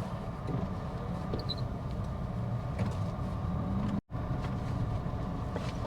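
Steady road and engine noise heard from inside a moving car, with the sound cutting out for an instant about four seconds in.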